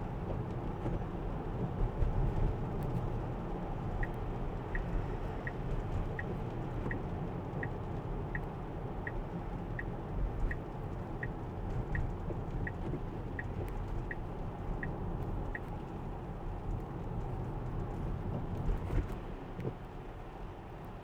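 Steady tyre and road rumble inside a Tesla's cabin while driving on a wet road. From about four seconds in, a regular series of short high pips sounds roughly every 0.7 seconds for about twelve seconds, then stops.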